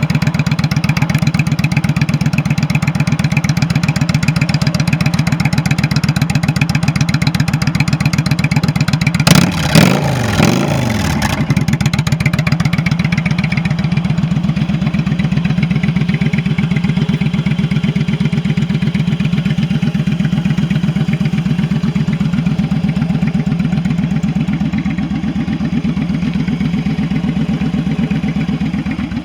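2003 Yamaha V-Star 1100's air-cooled V-twin idling with an even pulse, with two quick throttle blips about nine seconds in that rise and fall in pitch before it settles back to idle.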